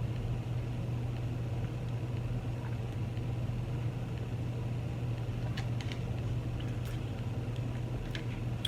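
A steady low hum runs throughout, with a few faint, short clicks in the second half.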